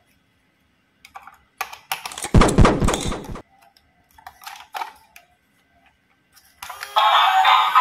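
Hard plastic toys clicking and clattering as they are handled, with one louder clattering thump about two seconds in and a few lighter clicks after. Music with sung vocals starts near the end.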